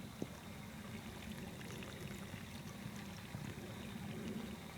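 Water trickling and splashing steadily in a small stream.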